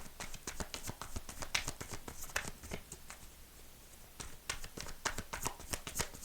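A deck of fortune-telling cards being shuffled and handled by hand: a quiet, irregular run of soft card flicks and taps.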